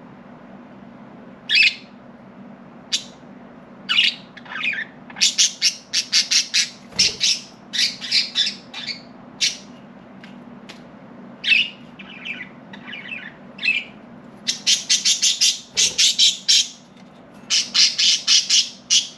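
Budgerigars chirping and squawking in quick runs of short, high, scratchy calls, over a steady low hum.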